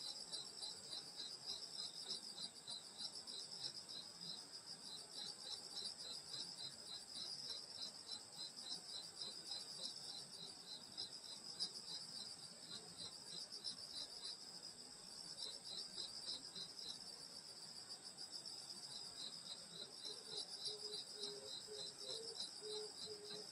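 Night chorus of crickets and other grass insects: a steady high trilling, with one insect chirping in a regular pulse several times a second that breaks off for a few seconds twice. Near the end a faint, lower pulsing note joins in.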